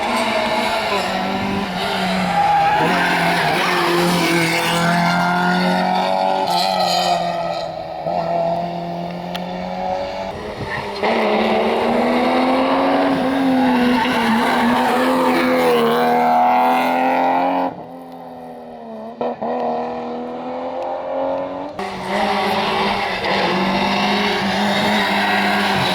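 Rally cars running hard on a special stage, engines held at high revs, with abrupt changes from one car to the next. Between them the sound drops for a few seconds, with a falling engine note, past the middle.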